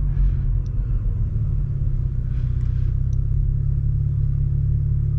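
BMW 335i's N55 turbocharged straight-six with a straight-piped exhaust running at low revs, heard from inside the cabin as a steady low drone.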